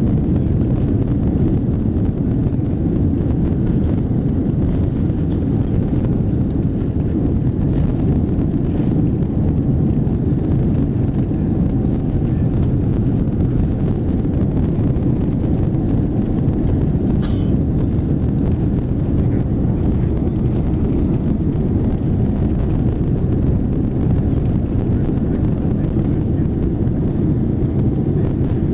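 Steady low rumble of jet engine and airflow noise inside the cabin of a Boeing 787-9 airliner, unchanging throughout, with one faint click about two-thirds of the way through.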